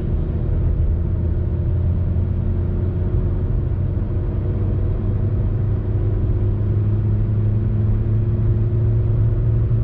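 Kia cee'd 1.4 CVVT four-cylinder petrol engine accelerating in fifth gear, heard inside the cabin as a steady drone that rises slowly in pitch as the revs climb from about 2,300 to 3,000 rpm.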